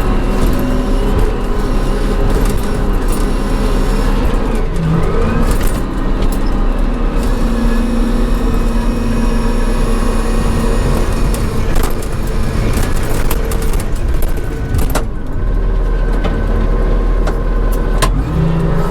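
John Deere 544C wheel loader's diesel engine running under work, its pitch dipping a few seconds in and rising again near the end, with a few sharp knocks.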